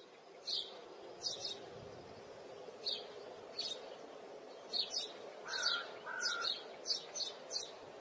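Small birds chirping: short, high chirps at irregular intervals, coming closer together in the second half, with two short lower notes about halfway through, over a faint steady hum.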